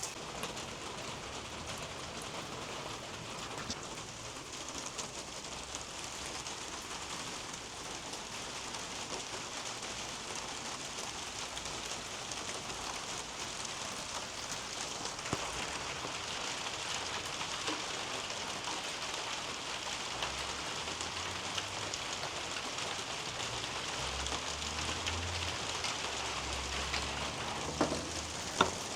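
Steady rain falling through garden foliage onto leaves and soil, with scattered single drops ticking and a few sharper drips near the end.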